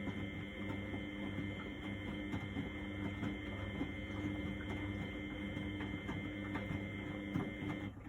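Miele Novotronic W828 front-loading washing machine turning its drum in a Cotton 60 wash: a steady motor whine with the wet load sloshing and ticking, cutting off suddenly near the end as the drum stops between turns.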